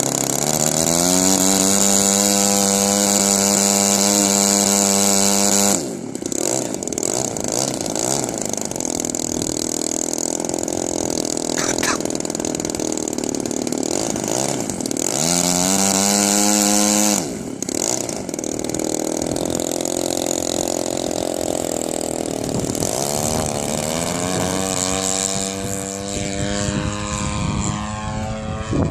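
EME 35cc single-cylinder two-stroke gas engine of a large RC aerobatic plane, driving its propeller: it is throttled up sharply to a steady high pitch and held, then chopped back suddenly, three times, running lower in between.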